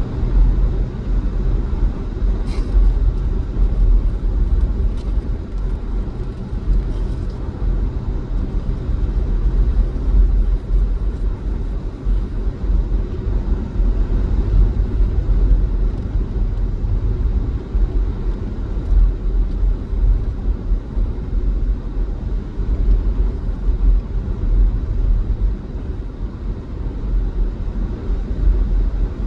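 A car driving on a snowy highway: a steady low rumble of road and engine noise.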